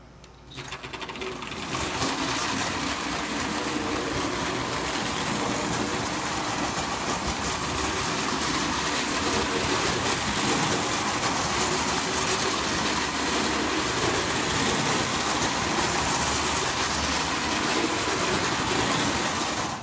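Marx electric toy train, a New York Central Commodore engine, running around its track: a steady whirring, rattling noise of motor and wheels. It builds up over the first couple of seconds and cuts off suddenly as the power goes off.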